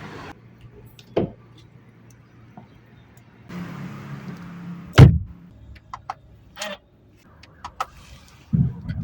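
A car door shuts with a heavy thump about halfway through, followed by several small clicks. Near the end, the Mercedes-Benz A180's 1.3-litre turbocharged four-cylinder starts up.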